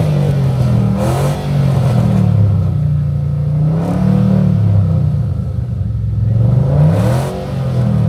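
Car engine being revved repeatedly, its pitch climbing and dropping, with loud rev peaks about a second in, around four seconds in and again near seven seconds.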